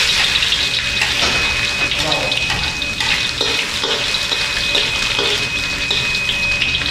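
Ginger going into hot oil in a wok, sizzling loudly: the sizzle starts suddenly and runs on steadily as the sauté begins.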